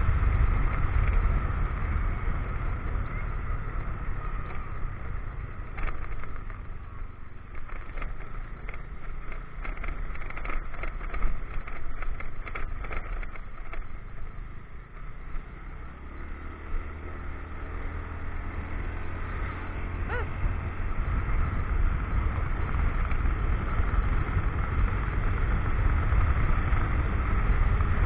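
Motorcycle engine running under the rider, with a low rumble and rushing air on an action camera's microphone. It eases off in the middle while a string of short knocks and rattles comes through, then picks up again steadily toward the end.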